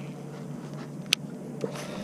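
Two short sharp clicks, a loud one a little past a second in and a softer one about half a second later, over a steady low background rush.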